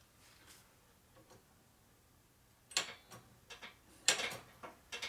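Short, irregular clicks and sputters in quick succession, starting about three seconds in: air and brake fluid spitting out through a motorcycle brake bleeder.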